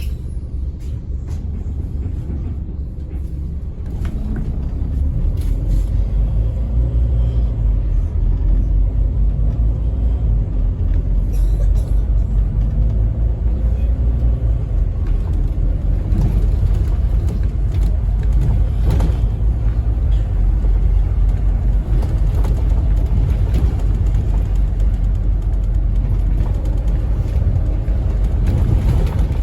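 Scania N270UD OmniCity single-deck bus's nine-litre five-cylinder diesel engine and road noise, heard from on board while the bus is moving, a deep steady rumble that grows louder about four seconds in as the bus picks up speed.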